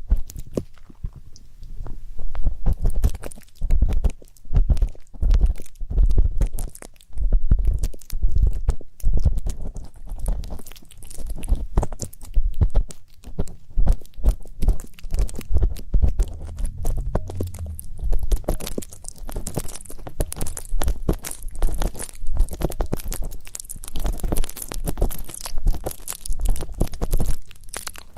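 Ear-cleaning ASMR: an ear pick scraping and rubbing close against the microphone, a dense, continuous run of crackly scratches with low thumps of handling.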